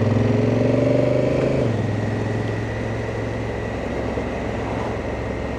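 Honda Africa Twin's parallel-twin engine running on a winding mountain descent; its pitch climbs slightly for about a second and a half, then drops and settles to a lower, steady note under an even rush of noise.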